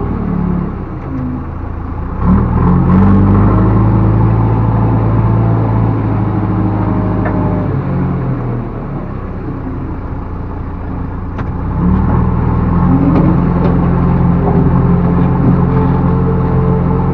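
Backhoe loader's diesel engine revving up twice, each time holding at high revs for several seconds before easing back toward idle.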